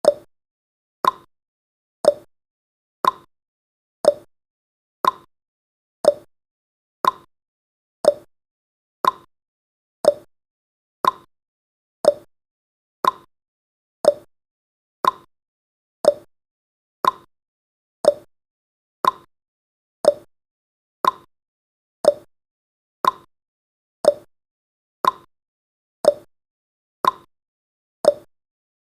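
Countdown timer's clock-tick sound effect: one short, sharp tick every second, alternating between a lower and a higher tick like a tick-tock.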